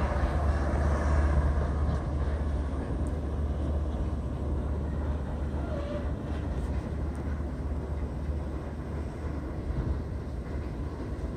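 Passenger train rolling away on the rails, a low rumble that slowly fades as it recedes.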